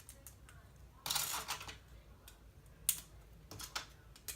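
LEGO plastic pieces being handled and snapped together: a short rattling shuffle of parts about a second in, then a few sharp plastic clicks.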